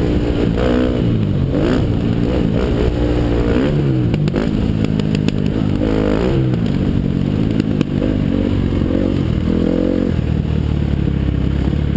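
2013 KTM 250 SX-F's four-stroke single-cylinder engine revving up and down under a riding load, its pitch rising and falling with each throttle opening and gearchange. A few sharp clicks come about four to five seconds in, and from about eight seconds in the engine runs steadier and lower.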